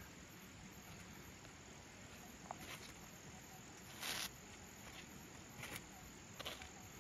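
Crickets chirping in a steady, evenly pulsing high trill. A few short rustling noises break in, the loudest about four seconds in.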